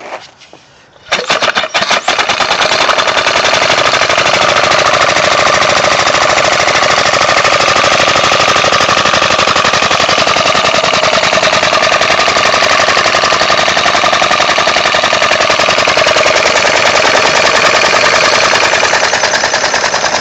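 Homemade two-stroke compressed-air engine starting about a second in and running fast under load, driving a water pump. Its exhaust puffs come in a loud, rapid, even chatter.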